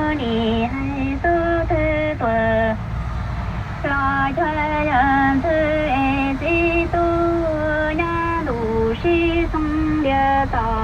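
A woman's voice singing a slow melody of held notes with vibrato, over the steady low rumble of a truck driving on the road.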